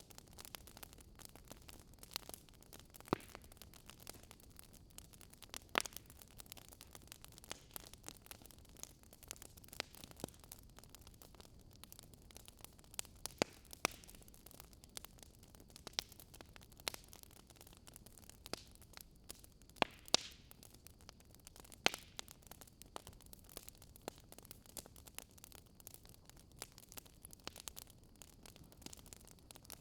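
Wood fire crackling in a fireplace: irregular sharp snaps and pops over a faint steady hiss, with a few louder pops scattered through.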